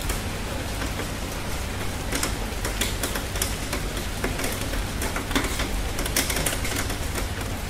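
Summer rain falling steadily: an even hiss with many irregular, sharp taps of individual drops close by, which grow thicker about two seconds in.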